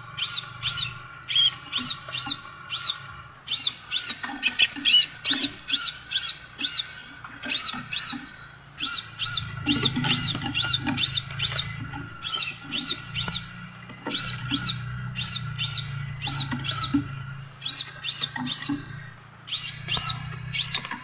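Scarlet minivet (sepah raja) calling: rapid runs of high, arched whistled notes, about five a second, in bursts of a few seconds with short breaks between them.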